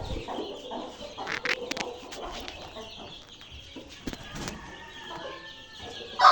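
Desi hens clucking repeatedly, mixed with short high cheeps that fit their chicks.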